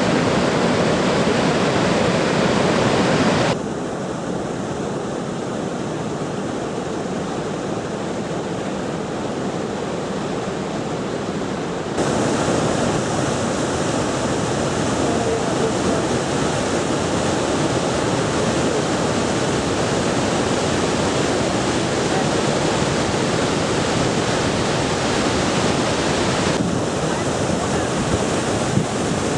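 Iguazu Falls: a steady rushing roar of falling water. Its loudness and tone shift abruptly three times.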